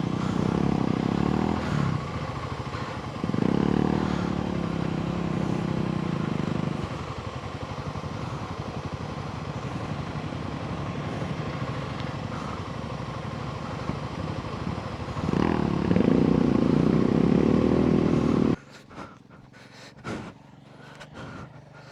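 Royal Enfield Himalayan 450's single-cylinder engine running on a muddy trail, surging under throttle three times. About three-quarters of the way through, the engine sound drops away abruptly, leaving faint clicks and knocks.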